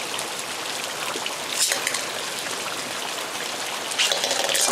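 Steady rain falling, with one sharp click about a second and a half in.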